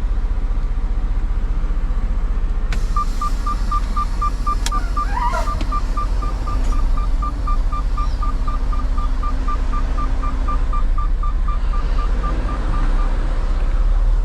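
Semi-truck diesel engine idling, a steady low rumble, with an electronic warning beep repeating about four times a second for some ten seconds, starting with a click about three seconds in.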